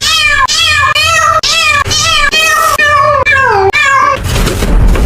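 A cat meowing in a quick, even series, about two meows a second, each falling in pitch; the last meow is longer and slides further down. About four seconds in, the meows give way to a loud rough rushing noise.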